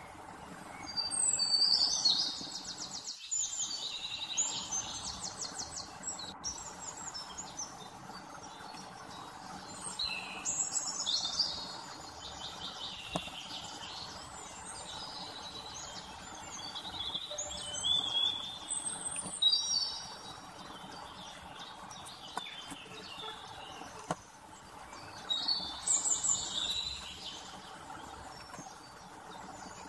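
Small birds chirping and twittering in quick high trills, in four bouts of a few seconds each, over a steady faint background hiss.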